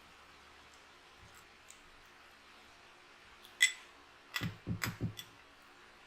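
Mouth sounds of someone eating: a single sharp click about three and a half seconds in, then a quick run of wet lip smacks while chewing.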